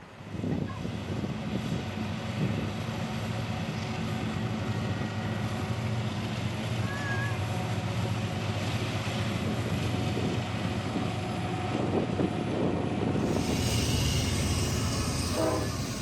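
Diesel locomotive engines running with a steady low rumble as a train passes. A hiss of wheel and rail noise grows about thirteen seconds in, and a short horn sound comes at the very end.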